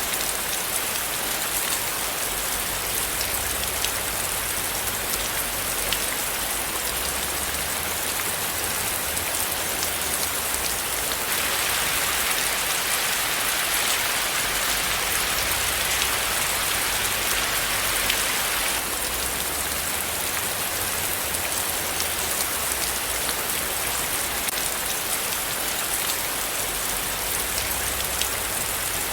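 Steady rain falling, with individual drops ticking through the hiss. From about eleven to nineteen seconds in, the rain grows a little louder and brighter, then settles back.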